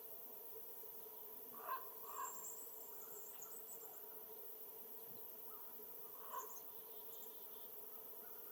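A crow cawing: two caws about two seconds in and another near the middle, with thin high chirps of small birds alongside.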